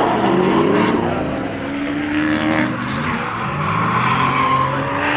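Drift cars' engines revving hard, their pitch rising and falling as the cars slide along the track, with tyre noise underneath.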